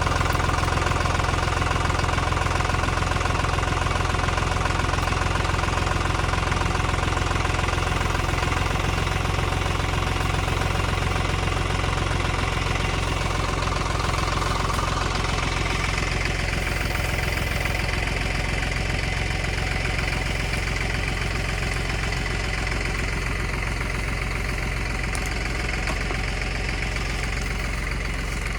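Tractor diesel engine running steadily. About halfway through its higher tone changes, and it grows slightly quieter towards the end.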